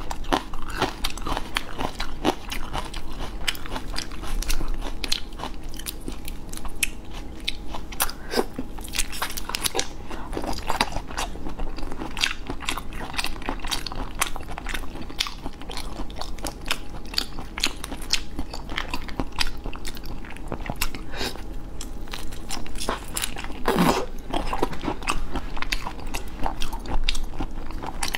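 Close-miked chewing and biting of raw tiger prawns, a dense run of small wet crunches and clicks.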